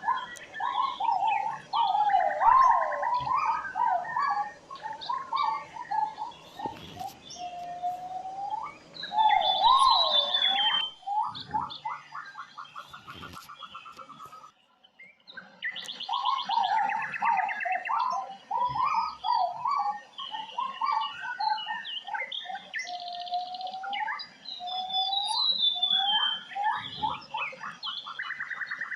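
Several birds singing together: a steady run of whistled, hooked notes in the middle range, with short fast trills and higher down-slurred phrases laid over them. There is a brief gap about halfway through, and after it much the same passage of song plays again.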